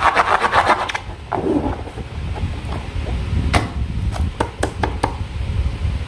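Slime being squeezed and worked by hand, giving a dense run of crackling clicks for about the first second, then a few separate sharp clicks and pops a few seconds in.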